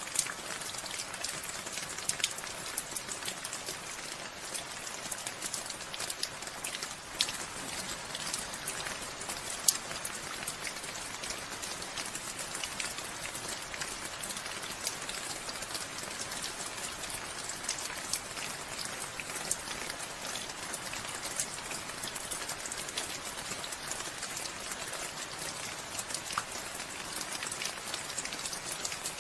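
Steady rainfall, with individual drops ticking sharply on a surface now and then.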